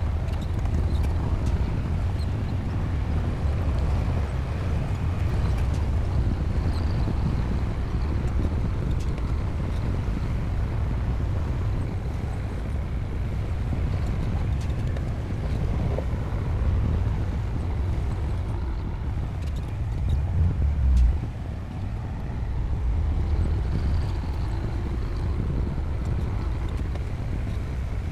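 Bulldozer's diesel engine running steadily under working load, a deep, even rumble that swells briefly about twenty seconds in.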